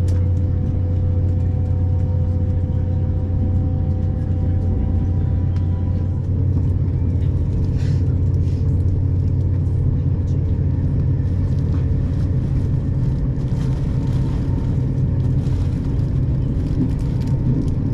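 Interior running noise of a moving passenger train: a steady low rumble with a hum whose tones drop slightly about six seconds in.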